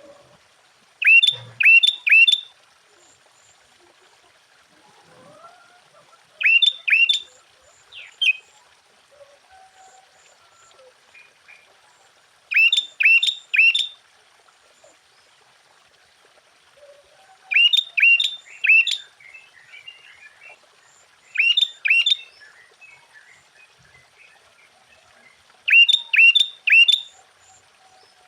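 Sooty-headed bulbul (kutilang) singing: loud, sharp phrases of two to four quick notes, repeated about every four to six seconds, with faint chirps in between.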